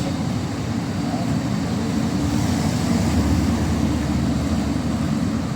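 City street ambience dominated by a steady low rumble that swells a little midway through.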